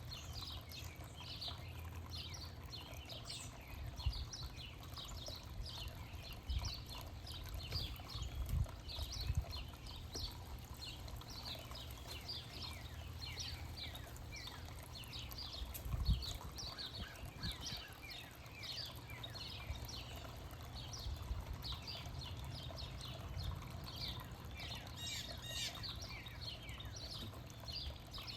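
Small songbirds chirping, with many short, high chirps overlapping throughout. A few low thumps stand out, the loudest about a third of the way through, over a steady low rumble.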